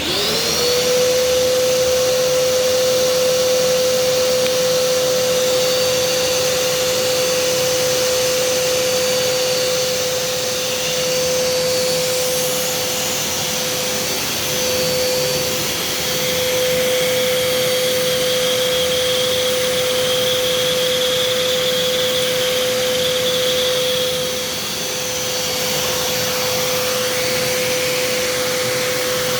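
Kärcher SE 4001 spray-extraction vacuum switched on, its motor spinning up within the first second into a steady, very noisy whine over a strong rush of suction. It then runs at full suction, with slight dips in level here and there.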